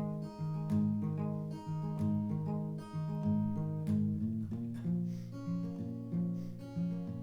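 Acoustic guitar playing an instrumental passage in a steady strummed rhythm, bass notes alternating beneath regular strokes.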